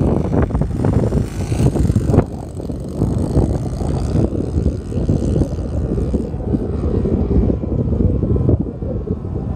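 Cessna 182 single-engine propeller airplane in flight, its engine and propeller making a loud, steady drone.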